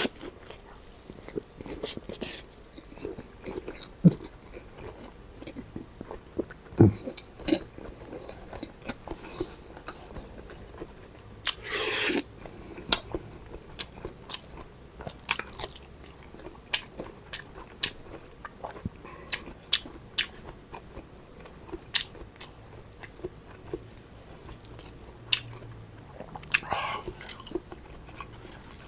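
A person chewing and biting food close to the microphone, with many short wet mouth clicks and smacks. Two louder, longer noisy sounds come about twelve seconds in and near the end.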